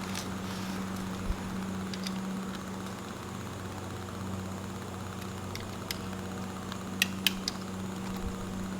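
A steady low machine hum, with a few sharp clicks and taps of tools and parts being handled; the loudest two clicks come close together about seven seconds in.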